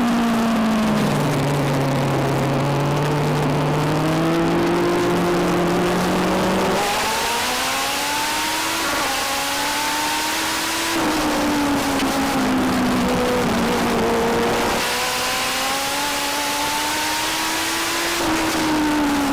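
Legend race car's Yamaha four-cylinder motorcycle engine running hard around a short oval. Its pitch climbs along the straights and drops off into the turns, about three times, and at least one other car's engine can be heard alongside.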